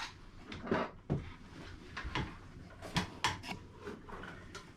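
Scattered light knocks, clicks and rubbing of objects being handled, with the sharpest clicks about three seconds in.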